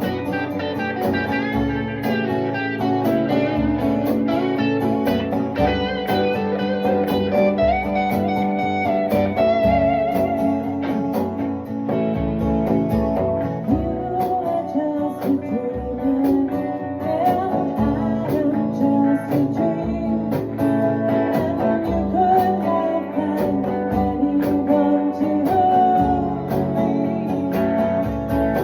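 Guitar music: a lead guitar plays a melody with bent, wavering notes over a fuller accompaniment, at a steady level throughout.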